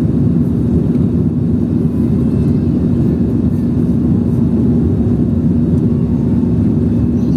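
Steady jet-airliner engine noise heard inside the passenger cabin: a low, even rumble with a steady hum.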